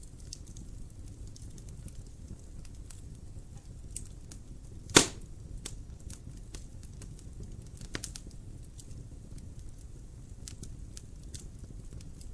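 Wood fire burning in a fireplace: a low steady rumble with scattered small crackles, and one loud pop about five seconds in, with a smaller pop a few seconds later.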